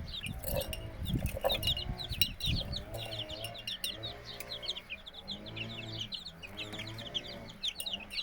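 Young Australorp chicks peeping rapidly and continuously, many overlapping high chirps, over a lower wavering call. A few knocks sound in the first couple of seconds.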